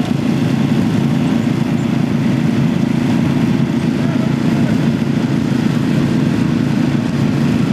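Riding lawn mower engines running steadily at high speed, a loud low drone with a fast even pulse.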